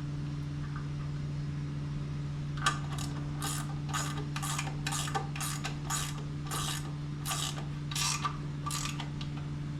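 A wrench ratcheting in quick strokes, about two a second, as nuts on an outboard lower unit are run down and tightened; the strokes start nearly three seconds in and stop near the end. A steady low hum runs underneath.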